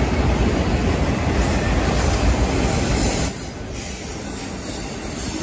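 Loaded autorack freight cars of a fast-moving train rolling past: a loud, steady rumble of steel wheels on the rails, easing off a little about three seconds in.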